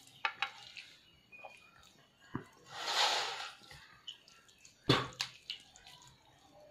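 Wet eating sounds of rice and fish curry eaten by hand: sharp, moist mouth smacks and clicks while chewing, the loudest about five seconds in, with a longer soft hiss about three seconds in.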